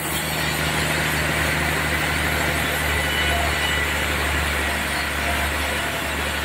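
Sawmill sawing a trembesi log: a steady, loud mechanical noise over a low engine hum.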